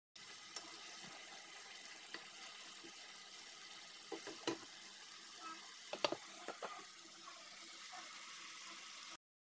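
Chicken pieces sizzling in a stainless steel pot, stirred with a wooden spoon, a steady hiss. A few sharp knocks of the spoon against the pot come about four seconds in and again about six seconds in.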